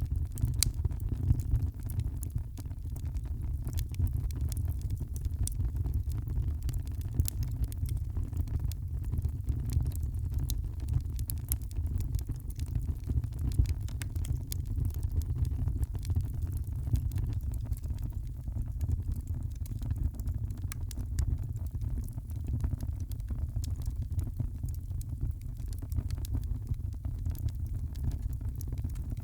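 Wood fire crackling in a fireplace: frequent small, sharp pops and snaps at irregular intervals over a steady low rumble of the burning fire.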